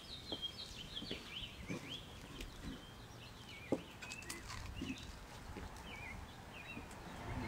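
Small birds chirping and singing faintly in short, quick notes, with one sharp click a little past halfway.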